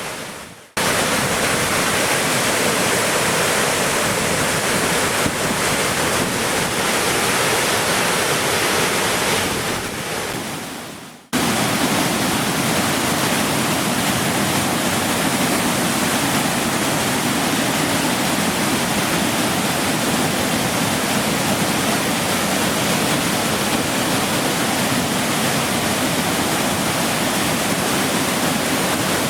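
Waterfall: a steady, loud rush of falling water. It drops out briefly twice, just under a second in and again about 11 seconds in, then carries on unchanged.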